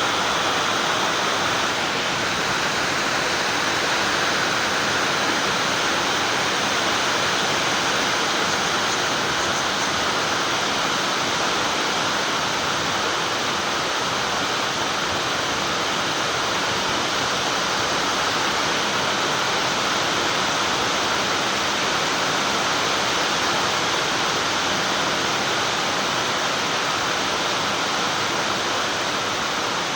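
Steady, even hiss of noise with no breaks or rhythm.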